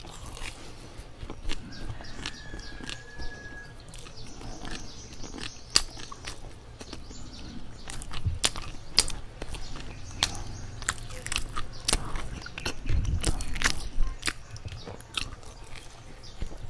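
Close-miked chewing of soft bread, with many sharp wet mouth clicks and lip smacks and a fresh bite near the end.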